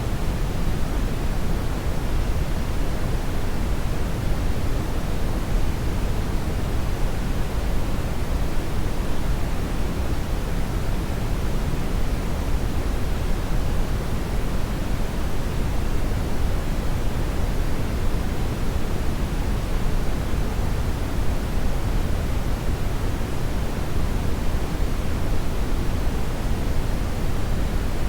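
Hair dryer running steadily: an even, unchanging noise, heaviest at the low end, with no rise or fall.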